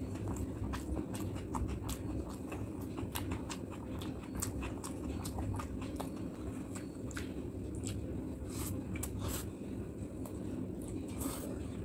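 Close-miked chewing of a mouthful of rice and curry: dense, irregular wet mouth clicks and smacks. Near the end, fingers work rice on a plate.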